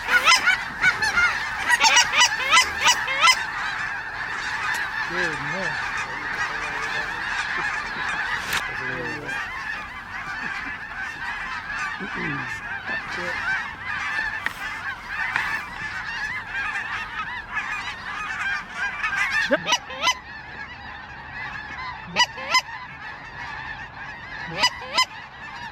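Snow geese calling, many birds at once in a dense, continuous chorus of high honking calls that thins out after about 20 seconds.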